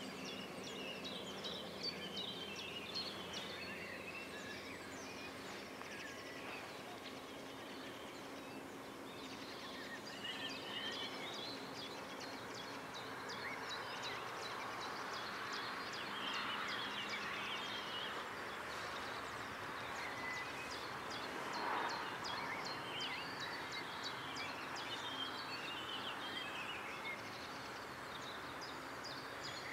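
Small birds chirping and singing over a steady outdoor background hiss, which swells and fades again about halfway through.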